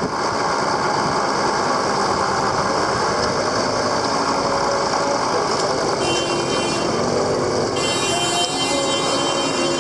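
Motorcycle running under way through busy streets, a steady loud wash of engine and street noise. About six seconds in, a high steady whine joins, and it comes back from about eight seconds in.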